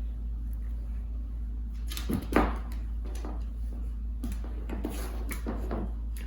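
Indoor knocking and handling noises: a thump about two seconds in, then several light knocks and clicks, over a steady low hum.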